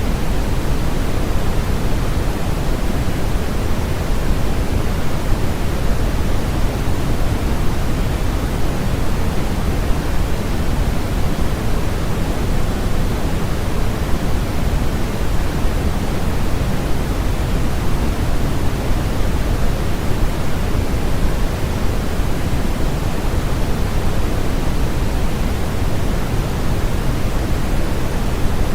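Steady, unchanging electronically generated noise for sleep masking: an even hiss weighted toward the low end, deeper than a bright white hiss.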